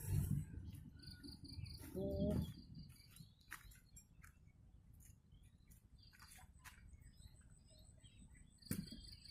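Faint insect chirping: short trains of rapid high pulses, heard about a second in, around six seconds and again near the end, among scattered clicks. A brief lower call comes about two seconds in.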